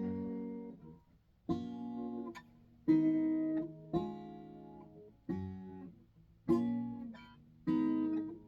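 Acoustic guitar strumming single chords, seven strums about a second and a quarter apart, each left to ring out and fade.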